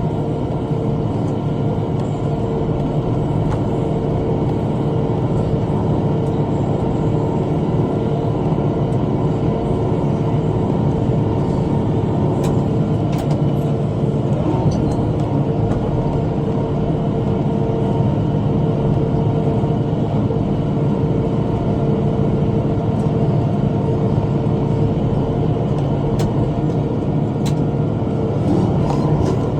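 Tractor engine running steadily at working speed while pulling a rotary cutter (bush hog), a constant drone with a few faint sharp ticks about halfway through and again near the end.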